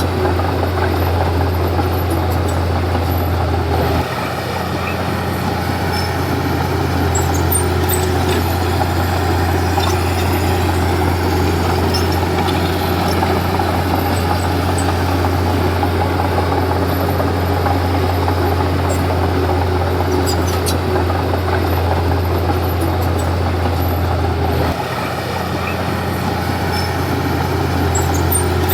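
Komatsu D31P bulldozer's diesel engine running steadily with a deep hum. The sound drops slightly about four seconds in and picks back up near the end.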